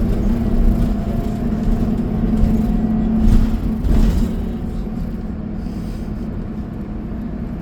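Transit bus running, heard from inside the passenger cabin: a steady low engine drone with road rumble, swelling louder briefly around three to four seconds in and easing a little after.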